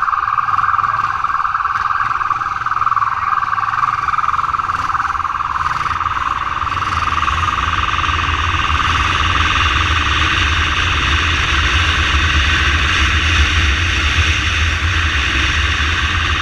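Ambulance motorcycle riding under way: engine and road rumble that grows heavier about halfway through, under a steady high-pitched squeal.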